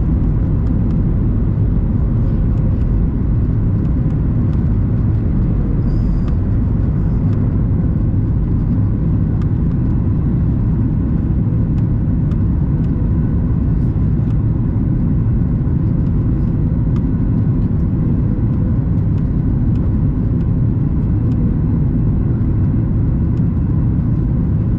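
Steady cabin noise of a Boeing 737 MAX 8 airliner in flight: a constant low rumble of engine and airflow with a faint steady hum.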